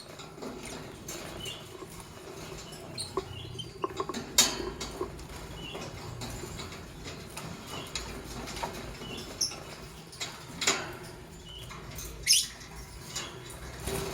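Lovebirds giving scattered short, sharp chirps. The three loudest come about four, ten and a half and twelve seconds in, with faint small clicks and scratches between them.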